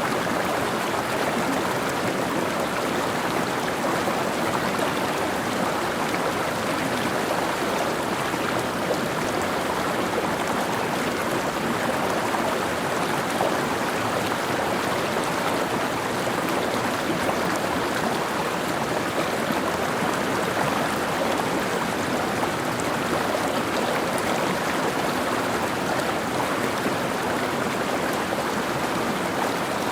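A mountain stream flowing, a steady rushing of water over rocks.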